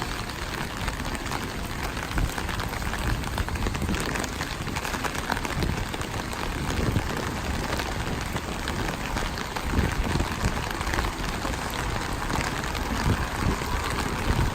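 Steady rain falling and spattering on surfaces, a dense even hiss, with a few soft low thumps in the second half.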